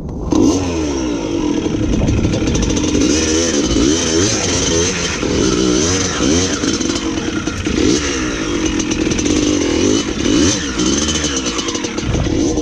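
Dirt bike engine being ridden, revving up and down over and over as the throttle is opened and closed.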